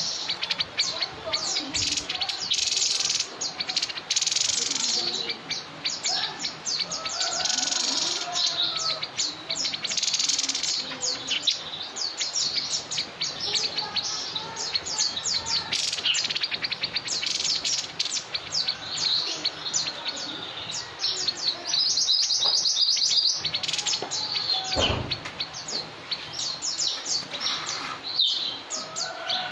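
A songbird singing a fast, unbroken run of sharp high chirps and trills, many notes a second, with longer rattling trills now and then.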